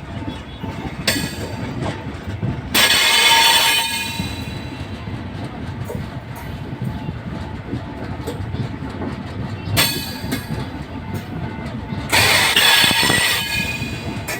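Train running on the rails with a steady low rumble. Two loud high-pitched screeches, each lasting a second or more, come about three seconds in and again near the end.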